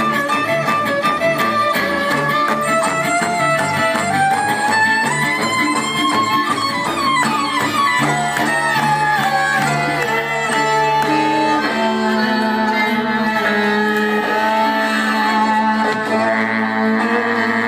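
Acoustic Romanian-inspired folk band playing a bulgar live: a violin leads the tune over guitar and bass. The melody climbs for several seconds, then runs quickly back down about seven seconds in, and after that settles into longer held notes.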